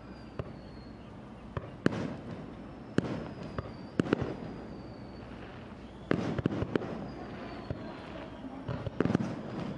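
Fireworks display: single sharp bangs of bursting shells at irregular intervals, with quick clusters of crackling reports about six and nine seconds in. Faint thin whistles fall in pitch between the bursts.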